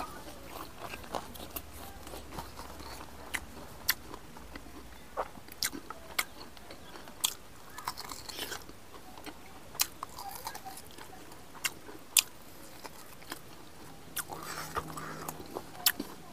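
Close-miked eating: a man chewing rice and meat with his mouth, with irregular sharp clicks and lip smacks.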